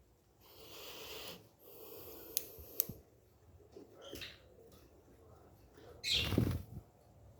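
Close handling noises: bursts of rustling with two sharp clicks about two and a half seconds in, and a louder, fuller rustling bump about six seconds in.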